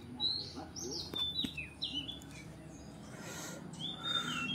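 Oriental magpie-robin (kacer) singing: a run of short, high whistled notes, many sliding up or down, with brief gaps between phrases.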